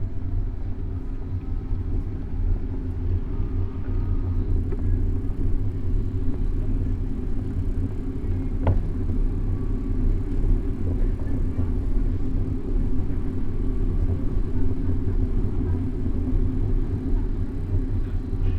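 Steady low rumble of riding noise picked up by a camera mounted on a moving bicycle, with one sharp click about nine seconds in.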